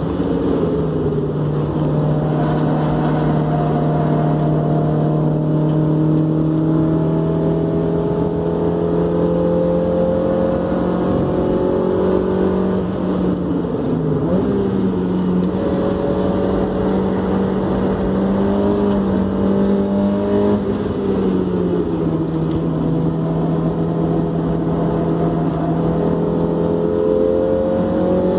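Mazda MX-5 NA's 1.6-litre inline-four engine pulling hard around a race circuit, heard from inside the cabin. Its note rises and falls slowly through the corners, with sudden pitch changes at gear changes about 14 and 21 seconds in, over steady road and wind noise.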